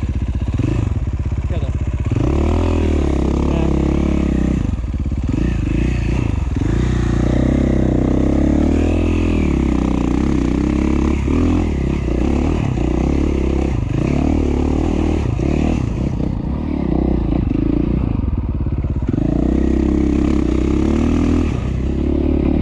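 2017 KTM 450 XC-F's single-cylinder four-stroke engine running under a constantly changing throttle on a trail ride, its pitch rising and falling with a few short dips, with some clatter from the bike.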